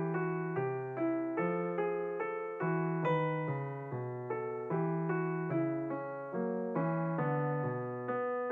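Background piano music: gentle, evenly paced notes and chords, each struck and left to fade, about two a second.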